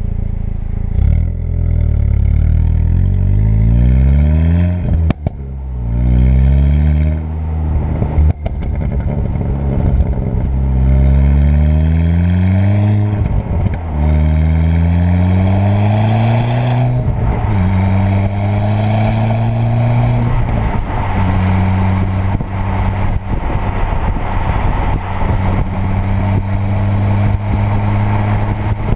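Turbocharged 2.0 TFSI four-cylinder engine pulling hard through several gears, its pitch rising with each pull and dropping at each shift, with a sharp bang at two of the early gear changes. In the last third it settles to a steady, even note at constant speed.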